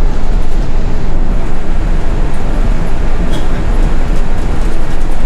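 City bus, fitted with snow chains on its wheels, driving through snow: steady engine and road rumble heard from inside the cabin.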